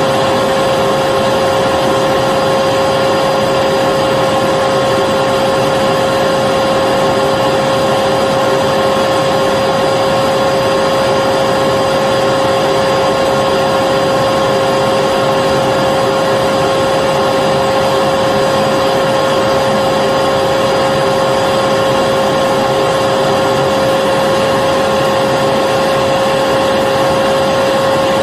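Vacuum cleaner running steadily: a constant, unchanging motor whine over the rush of air.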